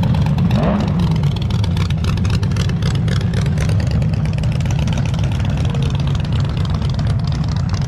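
Twin Volkswagen air-cooled flat-four engines coupled into one flat eight, in a gasser-style VW Squareback, revving up about half a second in and then running with a loud, steady low exhaust rumble as the car drives off.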